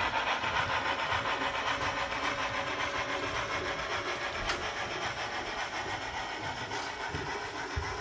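Model train running along the layout track, a steady rolling noise that slowly eases as it moves away.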